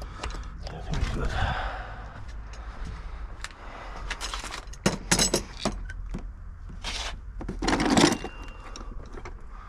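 Tools and metal car parts clinking, knocking and scraping as they are handled, with a cluster of sharp clicks about five seconds in and the loudest scrape about eight seconds in, over a steady low hum.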